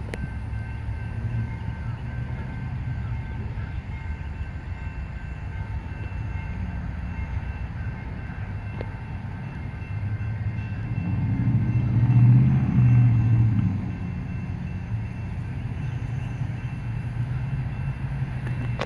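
Diesel locomotives of an approaching freight train rumbling low and steadily in the distance. A road vehicle passes about ten to fourteen seconds in, the loudest part.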